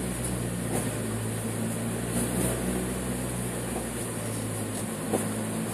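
Suzuki Swift Sport's engine running with a steady drone, heard from inside the cabin along with road noise.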